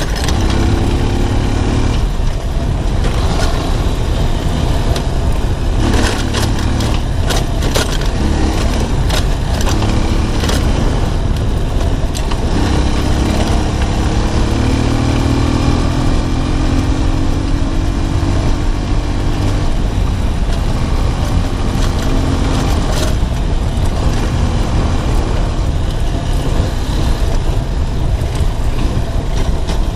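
Romet ADV 150's single-cylinder four-stroke engine running under way, with the engine note rising and falling as the throttle changes, most clearly from about halfway through. Wind buffets the microphone throughout, and scattered sharp clicks come from the ride over the rough track.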